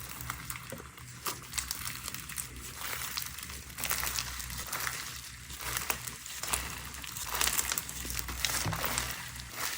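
Slime being squeezed and worked by hand, giving a dense run of small crackles and pops, with a faint low hum underneath.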